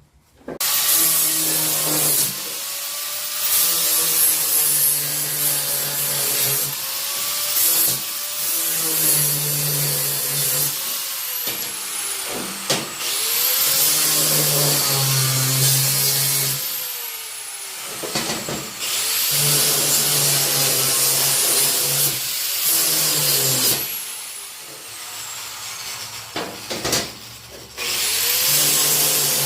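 Electric angle grinder cleaning surface rust off steel angle iron to prepare it for welding. It starts about half a second in, and the motor pitch sags each time the tool is pressed onto the metal and climbs back when it is eased off, over repeated passes with a couple of brief let-ups.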